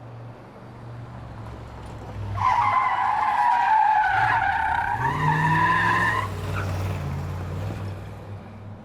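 Car tyres squealing in a skid for about four seconds, starting about two seconds in, over the car's low-running engine, which revs up briefly midway through the squeal.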